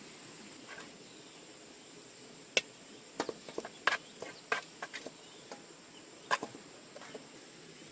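Steady high-pitched insect drone, with a cluster of about a dozen irregular sharp knocks and clicks in the middle.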